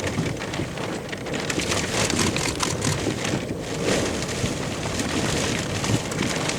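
Rain hitting a vehicle as a dense, steady patter over a low rumble, during a supercell thunderstorm.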